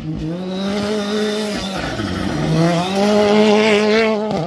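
Rally car engine revving hard, its pitch dropping about a second and a half in and climbing again, over a hiss of gravel and tyre noise.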